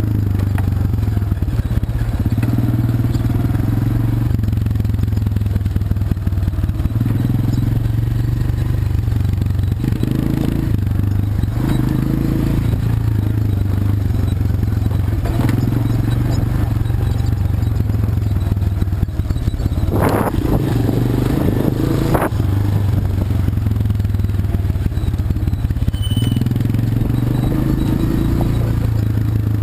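ATV engine running steadily as the quad rides along, its pitch rising and falling a little with the throttle. Twice, about twenty seconds in, short rushes of noise cut across it.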